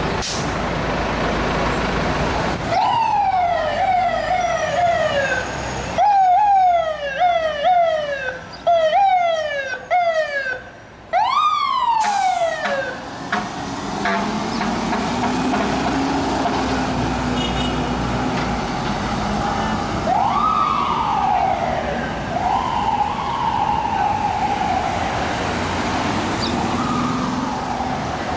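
Fire engine siren sounding in quick repeated sweeps, each jumping up and sliding down in pitch, for about ten seconds, then changing to slower rising-and-falling wails over traffic noise.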